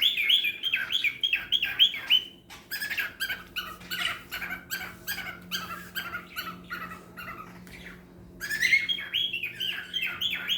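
Cockatiels chirping in fast runs of short rising-and-falling calls. There is a loud run at the start, softer scattered chirps in the middle, and another loud run from about eight seconds in, over a steady low hum.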